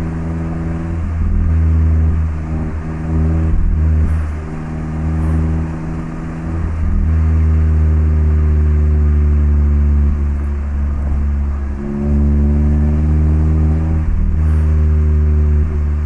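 Mazda MX-5 (ND) Roadster's 1.5-litre four-cylinder through an HKS Legamax Sports aftermarket exhaust, cruising at steady revs with a low, even drone. The sound briefly drops off about three times before picking back up.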